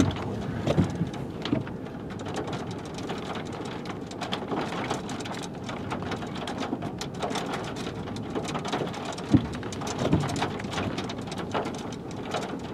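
Rain pattering steadily, many fine drop ticks over a wash of noise, with a few louder short thumps scattered through it.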